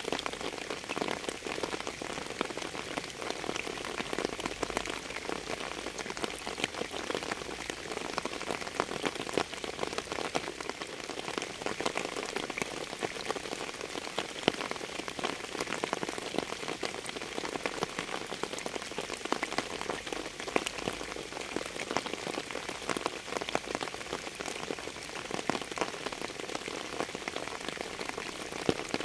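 Steady rain falling on a surface, with many separate drops heard as sharp ticks over a continuous hiss.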